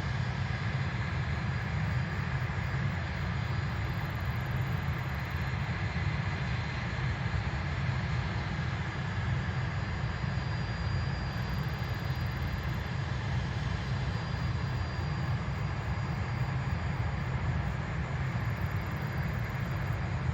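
Jet airliner engines running steadily: a constant deep rumble with a faint high whine over it.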